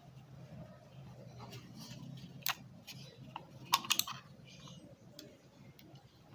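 A few sharp clicks, the loudest a quick cluster a little past the middle, with light handling rustle over a steady low hum.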